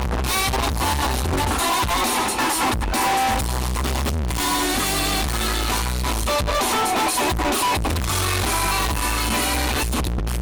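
Live band recording with electric guitar, bass and drum kit playing continuously as the soundtrack.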